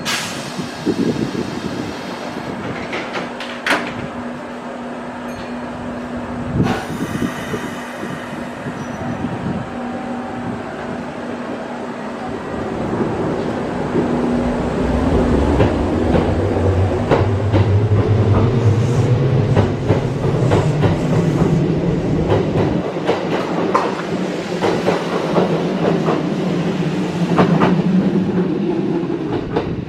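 Kintetsu electric train pulling out of the station. Its traction motors give a whine that rises steadily in pitch as the train accelerates, with the wheels clacking over rail joints.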